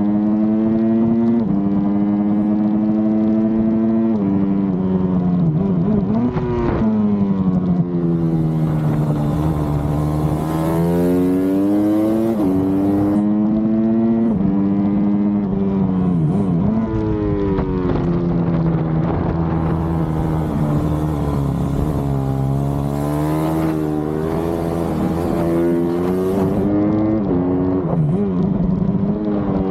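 Supermoto motorcycle engine being ridden hard on track, revving up through the gears with sudden pitch drops at each shift, then falling away under braking, over and over. A rushing hiss comes in during the two fastest stretches.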